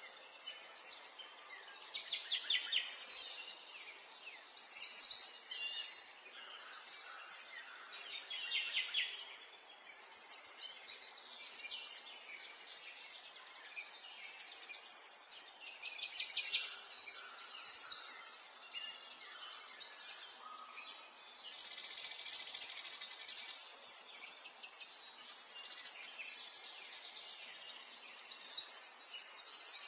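Songbirds singing outdoors: short chirping phrases repeated every second or two, with a longer steady trill a little past the middle.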